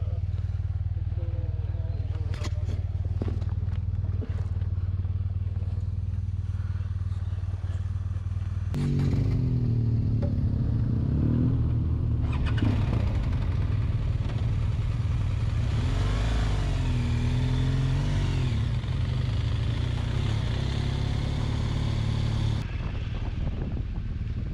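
BMW R1200GS flat-twin motorcycle engine idling steadily, then pulling away with the revs rising and falling through the gears. It then runs at riding speed with wind rushing over the microphone.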